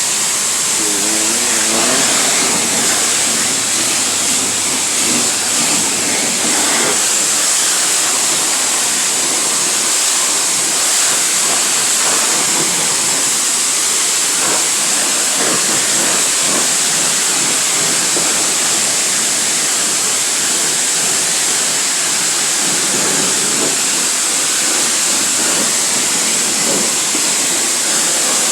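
Self-serve car wash wand spraying high-pressure soapy water onto a car, a loud, steady hiss with no breaks.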